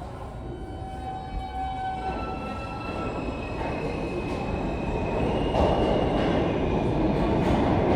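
R160 subway train running through the station, growing steadily louder as it comes closer, with rumbling wheels and several steady electric whine tones from its propulsion.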